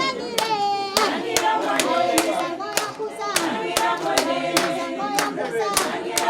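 Group of voices singing with steady rhythmic hand clapping, about two to three claps a second.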